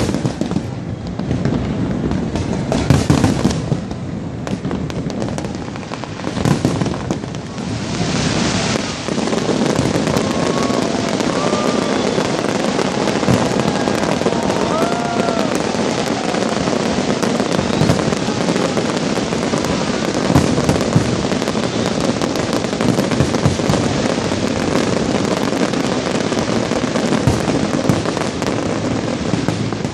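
Fireworks display: a continuous barrage of shell bursts, bangs and crackling with no gaps, with a few short whistles between about 10 and 16 seconds in.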